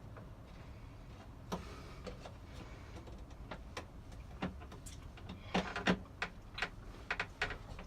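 Hard parts being fitted together by hand: scattered clicks and knocks, sparse at first and then a quicker run of louder ones in the second half, as a piece is pushed into place on the ceiling fan's mount.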